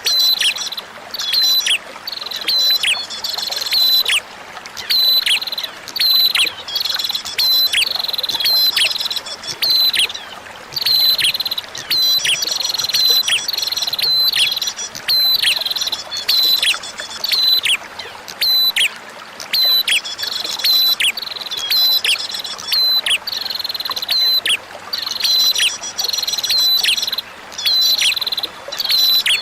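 Prinia (prenjak) calling in quick clusters of sharp chirps, each a high note that drops in pitch, repeated every second or so. Under it runs a steady hiss of flowing water.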